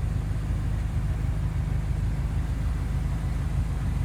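Steady low rumble of a BMW M5 F10's 4.4-litre twin-turbo V8 idling, heard from inside the cabin.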